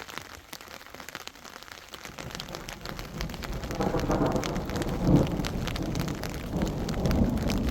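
Heavy rain falling, growing louder over the first few seconds, with a deep low rumble underneath it.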